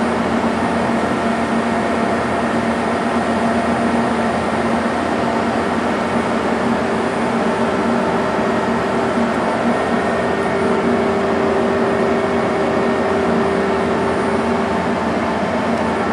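Okuma LC-50-2ST CNC lathe running through a program: a steady mechanical whir with several held tones. One tone grows stronger for a few seconds in the second half.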